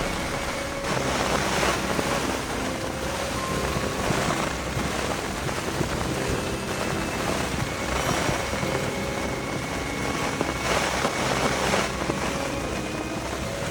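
Strong wind blowing in gusts, the noise swelling every few seconds and easing between them, during a windstorm.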